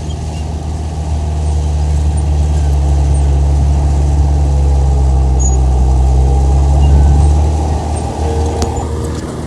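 Komatsu bulldozer's diesel engine running steadily, growing louder over the first couple of seconds, holding, then easing off about eight seconds in.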